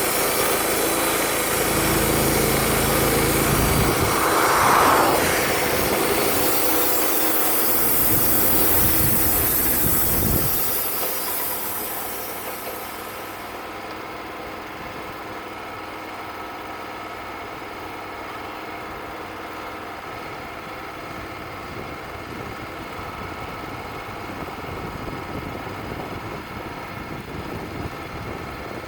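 Wood-Mizer LT35 band sawmill running, its band blade cutting through a poplar log for the first dozen seconds or so with a high hiss over the engine. Then the sound drops as the cut ends, and the mill runs on steadily at a lower level.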